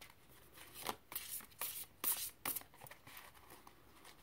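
Tarot cards being shuffled by hand: a run of short papery swishes in the first half, then quieter card handling.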